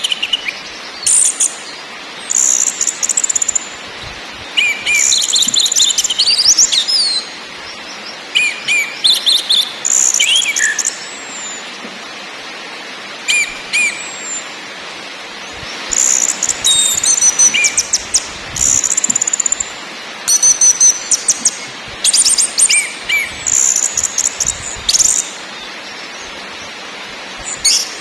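Orange-headed thrush singing in repeated bursts of rapid, high-pitched trills and chattering phrases with short pauses between them, over a steady hiss.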